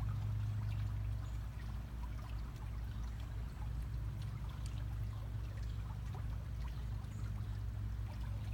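Water trickling steadily over a constant low hum, with small scattered ticks.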